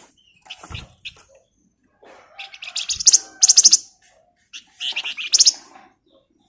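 A flamboyan (Javan fulvetta) singing in quick, dense runs of high chattering notes: a long burst about two and a half seconds in and another about a second later. A few faint low thumps come between the phrases.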